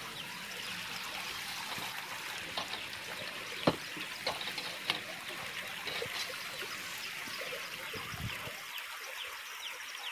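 A gobhi paratha sizzling in oil on a hot tawa: a steady hiss with small crackles, and a sharp click about three and a half seconds in.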